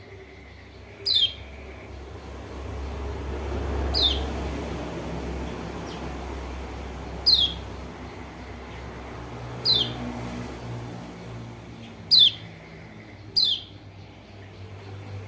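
Kecial kuning (pleci lombok), a white-eye, giving a short, sharp call that slides steeply down in pitch. The call comes six times at irregular gaps of one to three seconds, over a faint low hum.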